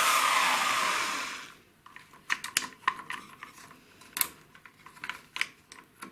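Electric chainsaw chain sharpener's grinding wheel spinning down, its pitch falling, until the motor noise stops about a second and a half in. After that come scattered light metallic clicks and taps as the chain and sharpener are handled.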